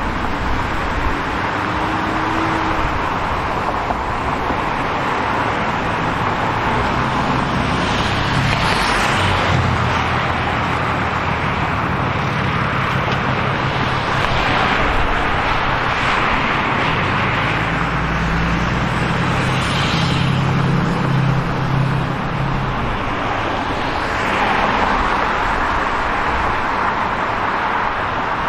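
City street traffic: a steady hum of road noise, with several cars passing, their tyre noise swelling and fading every few seconds, and a low engine hum in the middle stretch.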